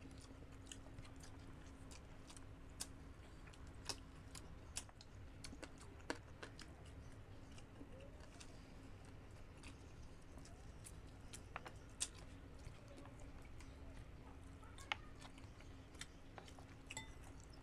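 Two people chewing soft chicken and papaya, with scattered small mouth clicks and smacks. A faint steady hum lies underneath.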